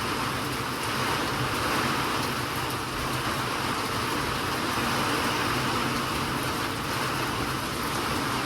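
Steady rain falling, an even hiss that holds at one level, with a faint low hum underneath.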